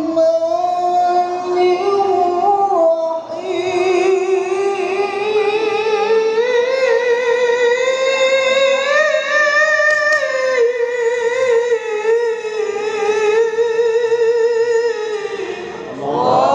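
A Quran reciter's voice drawing out one long melismatic phrase of tilawah, held on ornamented, wavering notes. After a short break near the start, the voice climbs gradually to a high point about ten seconds in, then settles lower and fades out near the end.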